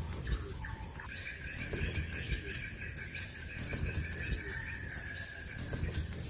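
Crimson sunbird giving short, very high-pitched chirps, about three a second, over a steady held tone that starts about a second in and stops near the end.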